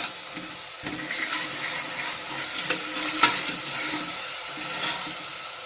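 Ginger-garlic paste sizzling in hot oil with onions in a pan, a steady hiss with a few sharp clicks.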